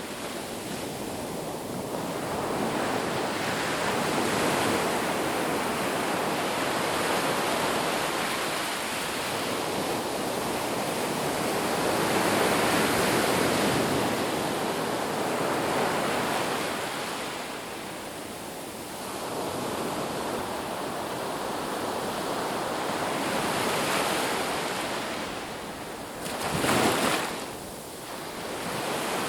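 Ocean surf washing onto a beach: a continuous rushing wash that swells and ebbs slowly over several seconds, with one brief sharper surge near the end.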